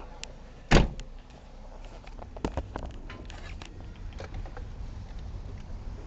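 A single loud thump about three-quarters of a second in, then a scatter of lighter clicks and knocks, over a steady low rumble.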